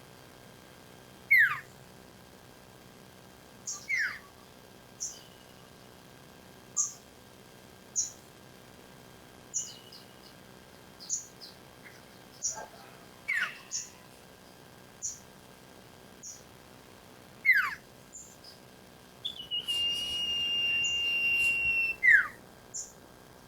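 Common iora calling: short high chips about once a second, mixed with a few loud whistles that slide steeply down in pitch. Near the end comes one long steady whistle of about three seconds, followed by another downslurred whistle.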